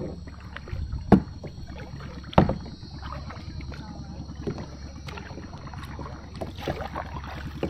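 Boat sounds on the water: a steady low rumble with a few sharp knocks, the loudest about a second in and again about two and a half seconds in.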